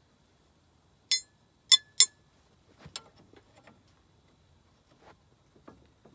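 Three sharp clinks with a high ringing, about a second in, then lighter scattered knocks of something being handled.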